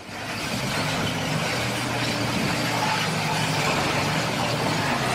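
Motor vehicle running on the road: a steady engine hum under road and wind noise.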